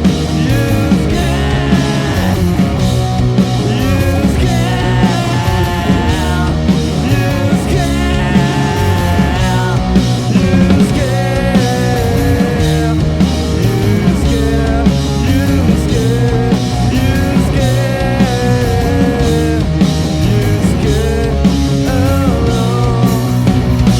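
Rock band playing a grunge song live and loud: a dense, driving instrumental passage of band music without a clear sung line.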